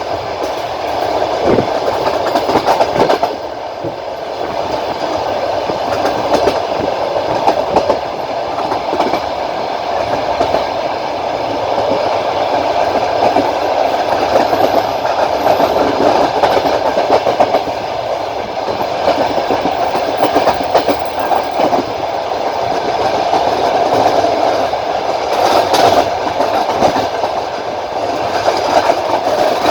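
Passenger train running at speed, heard from inside the coach at the window: a steady rolling rumble of the wheels on the rails, with wheels clattering over rail joints in clusters at the start and again near the end.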